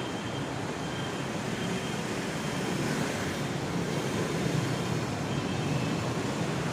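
Steady city street background noise, mostly road traffic, with no single event standing out.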